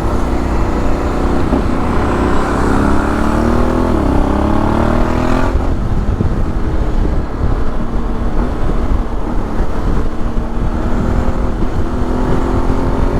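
Honda X-ADV 750 parallel-twin engine running under way, heard with steady wind noise while riding. The engine pitch climbs, dips sharply and rises again about four seconds in. From about halfway it is mostly buried in the wind noise, and it comes up again near the end.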